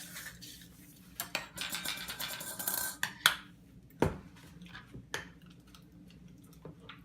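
A spoon scraping and clinking in a pint jar of oatmeal: a scrape lasting about a second and a half, with several single sharp clinks before and after it.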